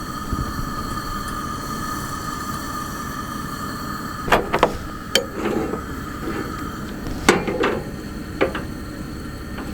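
Steady hum of a pickup truck left idling to warm the cab, with a few sharp knocks and clatter of things being handled in the middle of the stretch.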